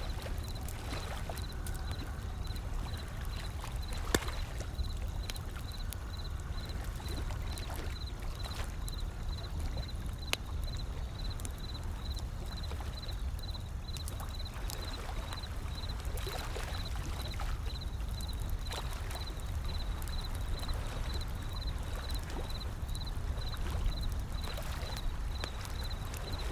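Wood fire crackling with scattered sharp pops, the loudest about four seconds in, over the steady rush of gentle ocean waves rolling in.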